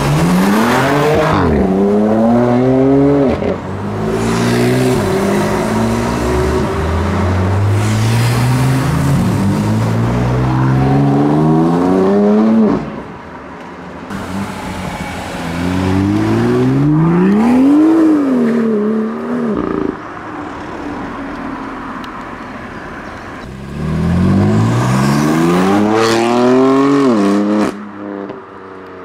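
BMW M4 twin-turbo straight-six engines accelerating hard in several separate drive-bys, the revs climbing and falling again and again as the cars pull away.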